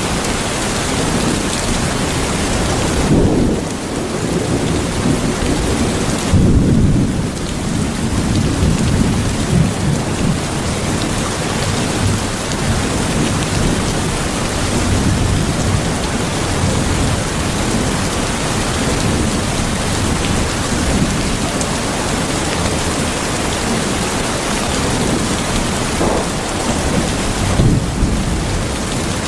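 Steady rain falling, with low rolls of thunder a few seconds in, around 6 to 7 seconds in, and again near the end.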